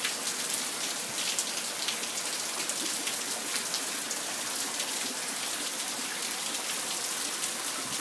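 Heavy soaking rain pouring onto a paved patio, plants and a backyard pond: a steady, dense patter of drops.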